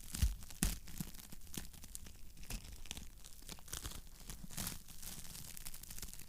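Wood fire crackling in a fireplace: irregular pops and snaps over a low steady rumble, with two louder pops in the first second.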